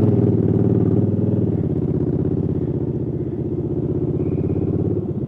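Motorcycle engine running steadily at low revs, easing off slightly about a second and a half in.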